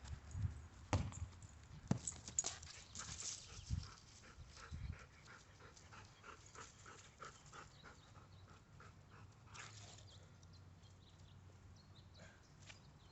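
A dog moving about on a hard surface: a few sharp thumps in the first five seconds, then a run of soft, evenly spaced sounds, about three a second.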